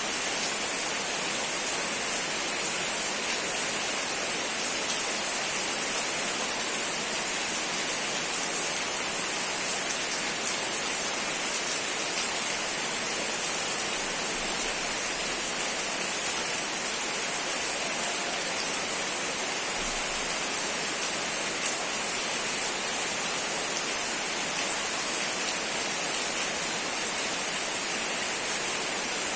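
Steady rain falling: an even, unbroken hiss, strongest in the high treble, with a single small click about three quarters of the way through.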